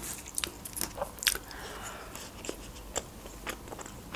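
Close-up mouth sounds of someone chewing food: irregular sharp clicks and smacks.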